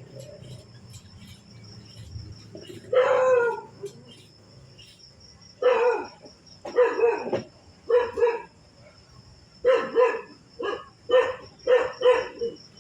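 An animal calling over and over: about ten short, loud calls, one about three seconds in, then in quick runs of two or three, over a faint steady high-pitched whine.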